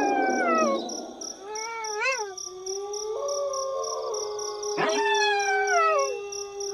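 Several wolves howling in chorus, their long howls overlapping. Some slide down in pitch, one rises and falls briefly about two seconds in, and one is held steady on a single note while new falling howls join near the end.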